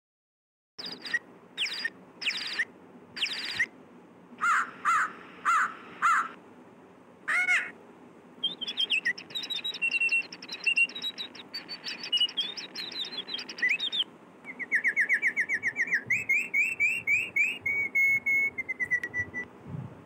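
Birds singing and calling outdoors. Spaced chirps start about a second in, the chirping grows busier near the middle, and fast runs of repeated notes follow in the second half.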